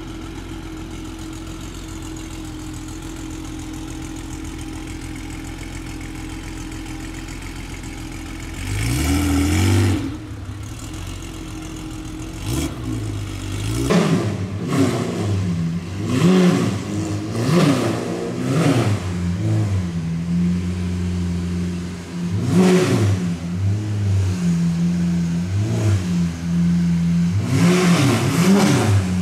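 Car engines idling in city traffic, with one rising rev about nine seconds in. Then a Lamborghini Aventador's V12 idles and is blipped again and again in short rising-and-falling revs, with the louder ones clustered near the end.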